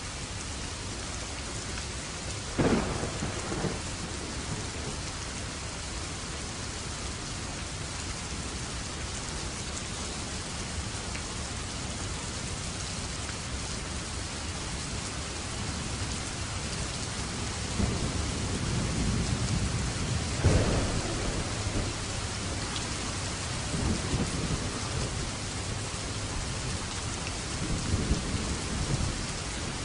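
Steady heavy rain with thunder. There is a sharp thunderclap about two and a half seconds in, and a long rolling rumble past the middle that peaks in a loud crack. Fainter rumbles follow near the end.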